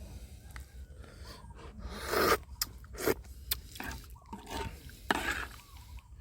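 A utensil scraping against a cooking pot in several separate strokes, the loudest about two seconds in, as a curry is stirred.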